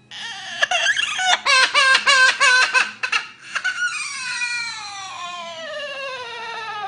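Parrot mimicking a child crying: a run of quick, choppy sobbing cries for about three seconds, then one long wail that slides steadily down in pitch.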